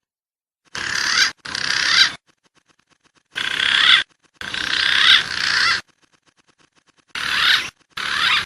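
Recorded wild pigeon calls from a bird-lure track, played as six short, abruptly cut bursts with dead silence between them.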